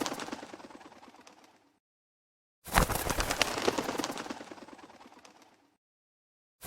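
Fireplace crackling in repeating bursts. Each burst starts suddenly with a sharp crack, thins out and fades over about three seconds, and is followed by about a second of dead silence before the next burst begins.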